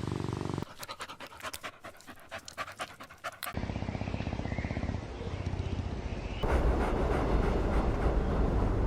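Puppy panting in quick breaths, in a few short clips cut one after another, with the last stretch louder.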